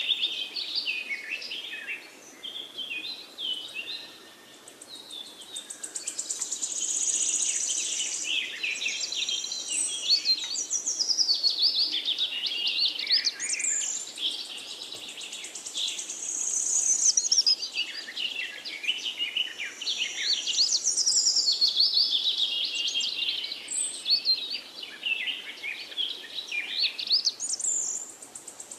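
Small birds chirping and trilling, with many quick, high calls overlapping.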